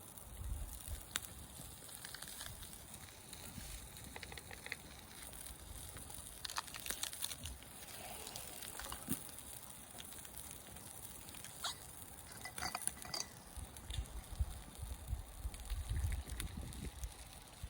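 Campfire cooking: scattered crackles and small clicks, with occasional clinks of metal cookware, and low gusts of wind on the microphone near the start and again toward the end.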